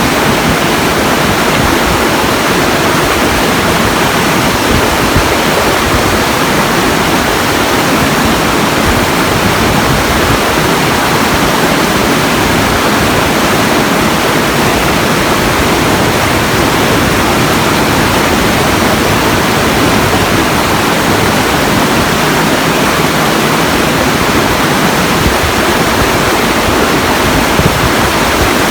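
Steady, unbroken rushing of water, like a waterfall or fast stream, loud and even throughout.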